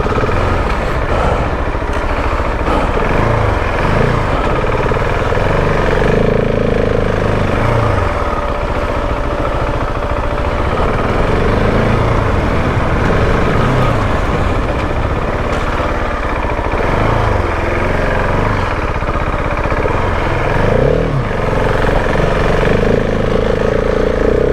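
Husqvarna 701 Enduro's big single-cylinder four-stroke engine being ridden hard, revving up and falling back again and again as the throttle is opened and closed through the track's corners and jumps.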